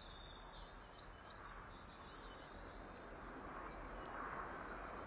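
Faint background ambience with small birds chirping in quick high trills, once near the start and again about two seconds in, over a low steady hiss.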